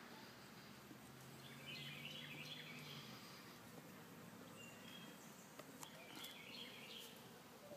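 Faint birdsong: two runs of short repeated chirps from a small bird, over quiet outdoor background noise, with a faint low hum during the first few seconds.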